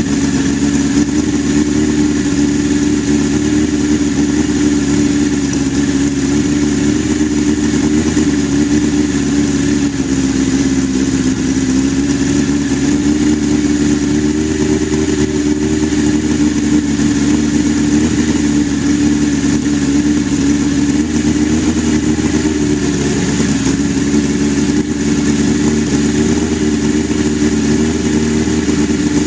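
1983 Suzuki GS1100E's air-cooled inline four-cylinder engine idling steadily while warming up after a cold start, its pitch wavering slightly.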